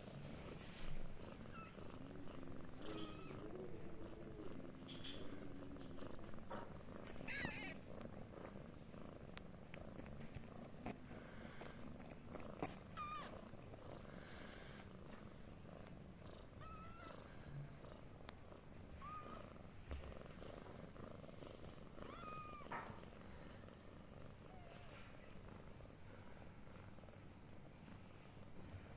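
Mother cat purring steadily, with her ten-day-old kittens letting out scattered short, high squeaking mews and small rustling clicks as they move about.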